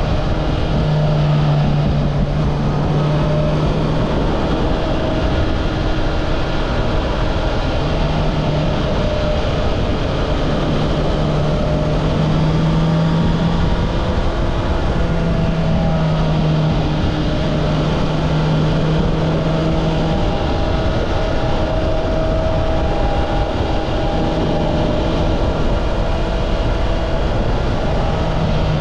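Honda CB650R's inline-four engine on its stock exhaust, running steadily under way at an even pitch; the clear engine note fades and returns a few times.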